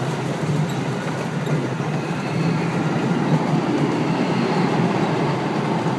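Amusement-park ride-on train running along its track, a steady rumble of wheels and cars. A faint high whine joins about two seconds in.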